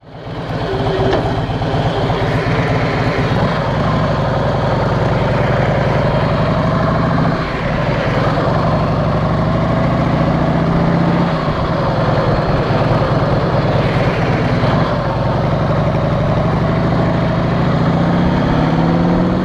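Harley-Davidson Heritage Softail's V-twin engine running under way, its note rising and falling with the throttle and climbing near the end as the bike accelerates.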